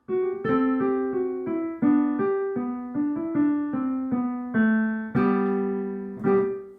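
Piano playing a slow melody over chords, a new note or chord struck about every half second. A last chord near the end is cut off abruptly.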